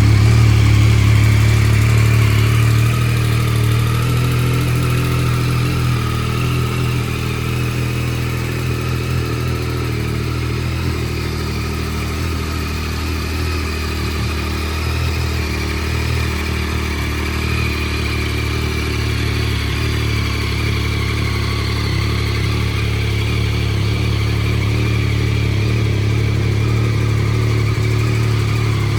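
Yamaha MT-09's three-cylinder engine idling steadily just after a start-up, a little louder for the first couple of seconds before settling.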